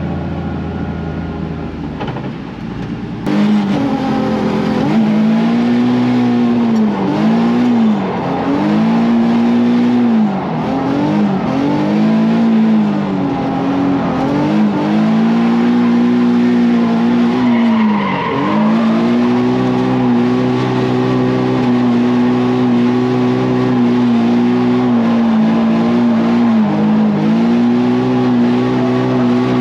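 Nissan 350Z drift car's V6 engine held at high revs through a drift run, the revs dipping briefly again and again as the throttle is worked, with tyres squealing. The engine gets suddenly louder about three seconds in.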